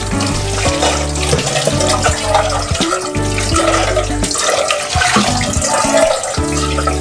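Tap water running into a sink, under background music.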